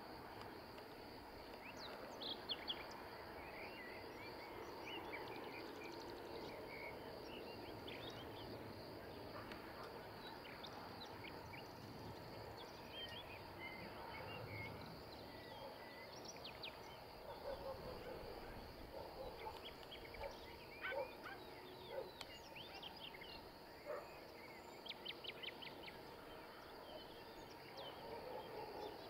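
Birds chirping and calling in short scattered notes over a faint steady outdoor background, with a thin steady high hiss.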